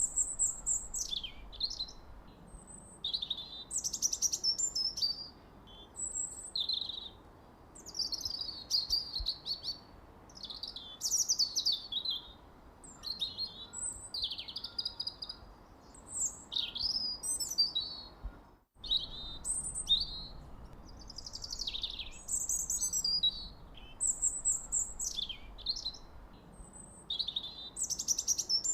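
Songbirds chirping and singing: a steady stream of short, high chirps and quick falling whistled phrases, one after another, over a faint background hiss. There is a brief break in all sound about two-thirds of the way through.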